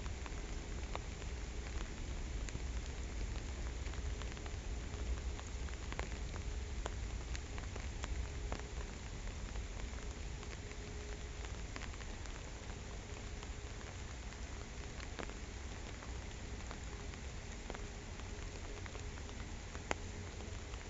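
Steady rain falling on a pond, with scattered sharper ticks of single drops landing close by.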